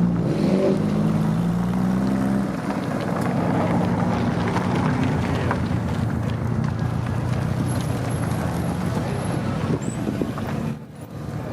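Race car engine running hard, its pitch shifting over the first couple of seconds, then a steady engine drone; the sound drops away briefly near the end.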